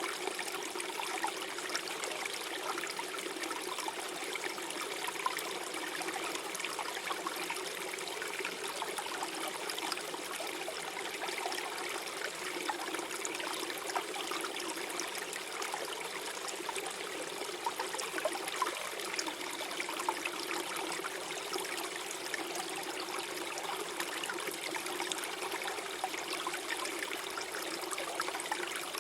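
Small forest stream flowing and gurgling over stones, a steady trickling and babbling of water.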